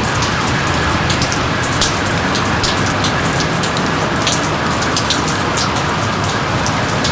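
Steady heavy rain, with many separate drops splashing sharply and close against a constant hiss.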